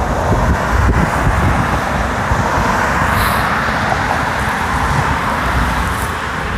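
Wind rumbling on the microphone, with road traffic going by; a vehicle's tyre noise swells and fades in the middle.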